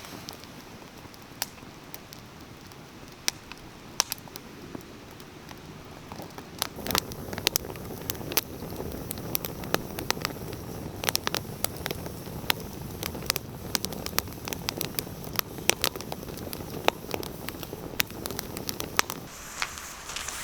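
Firewood burning in a campfire, crackling and popping with irregular sharp snaps over a low hiss. The crackling is sparse at first, then grows louder and busier about seven seconds in.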